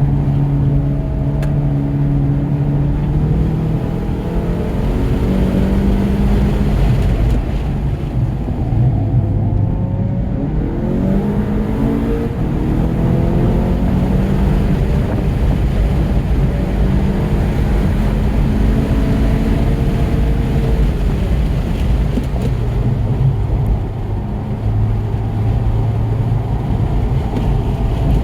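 A 2017 Volkswagen GTI's turbocharged 2.0-litre four-cylinder, in Stage 2 tune, driven hard on a race track. The engine pitch repeatedly climbs under acceleration and drops off, over steady road and wind noise.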